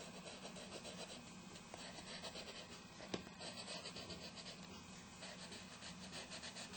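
Faint scratching of a colouring utensil on a colouring-book page, shading in rapid, even back-and-forth strokes, with a single sharp tap about three seconds in.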